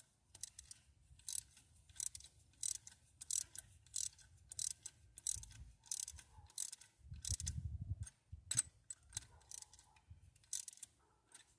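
Ratchet wrench being worked in short repeated strokes, a sharp click roughly every half to two-thirds of a second, while the rocker arms on a rebuilt Ford Fairlane engine are set. A low rumble runs for about a second around seven seconds in.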